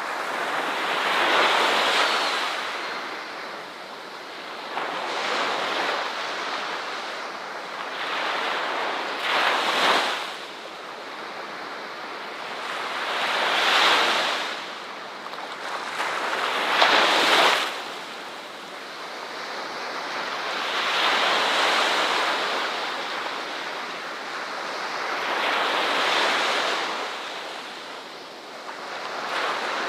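Ocean waves breaking on a beach in repeated surges, each one swelling and then washing away every few seconds, with a few sharper crashes among them.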